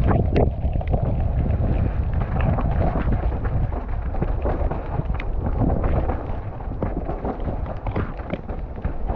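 Wind buffeting the microphone over a mountain bike descending a wet, sandy dirt trail, with many short rattles and knocks from the bike over the bumps.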